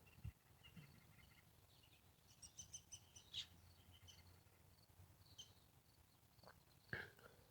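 Faint songbird chirps, with a quick run of high notes about two and a half seconds in, and a couple of soft low thumps, one near the start and one near the end.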